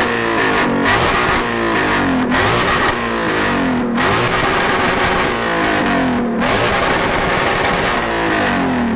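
A modified car's engine revved hard again and again, the pitch dropping after each blip, with loud crackling from the exhaust.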